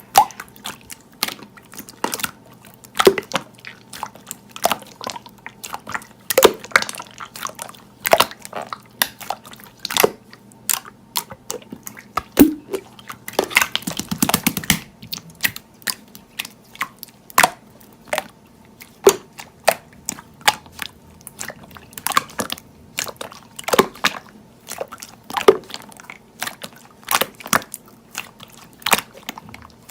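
Slime being squeezed, pressed and poked by hand, giving irregular sticky pops and clicks, with a quick run of crackles about halfway through.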